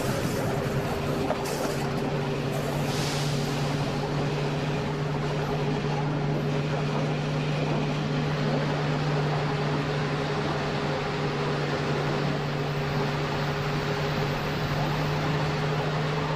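Electric train running along the track: a steady low hum over the rumble of wheels on the rails, with a couple of brief higher noises in the first few seconds.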